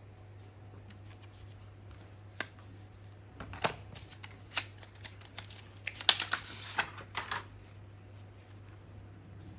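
Packaging being handled during an unboxing: starting about two seconds in, a run of scattered sharp clicks and taps, then a denser crackling rattle for about a second and a half past the middle, over a steady low hum.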